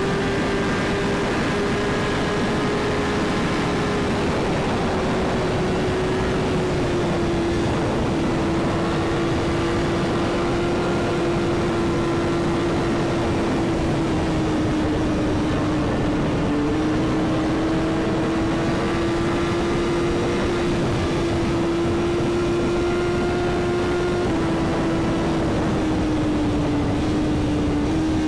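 Sport bike engine held at a steady high note while cruising at speed, over a constant rush of wind noise; the pitch sags a little now and then without any big revs or shifts.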